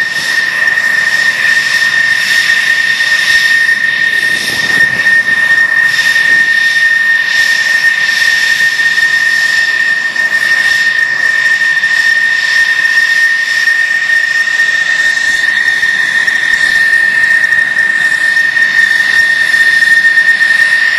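F-16 fighter's jet engine running at a constant setting: a loud, steady high whine over a rushing noise.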